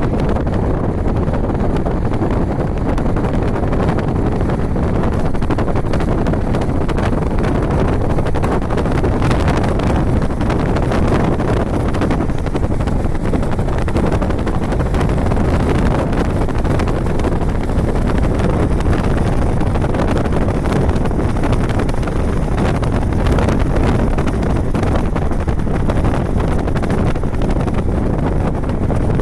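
Steady, loud low rumbling noise with no clear pitch.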